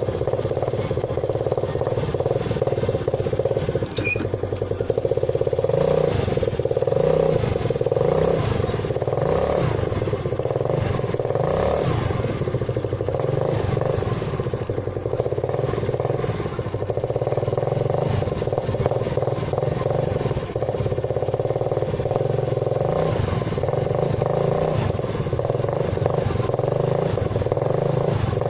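Yamaha Mio Sporty scooter's single-cylinder four-stroke engine running through a tin can fitted over the stock exhaust pipe with nothing inside it, revved up and down several times in quick succession, then held at a steadier pace. The owner likens the can's sound to a power pipe.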